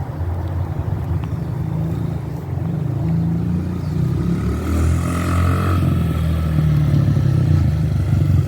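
Honda CRF50F's small four-stroke single-cylinder engine running as the bike is ridden, its pitch wavering a little with the throttle and getting slightly louder toward the end.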